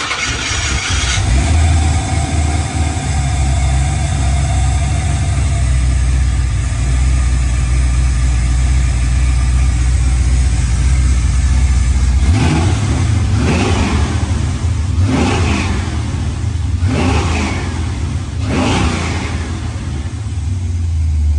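Aluminum 6.0-litre LS V8 just started and running at a steady idle, then revved about five times in short blips from about halfway through.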